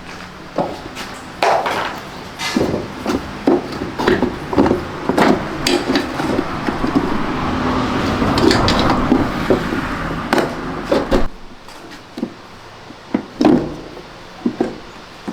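Repeated knocks and clatter of tools and parts being handled while a washing machine is taken apart, over a steady low rumble that cuts off suddenly about eleven seconds in.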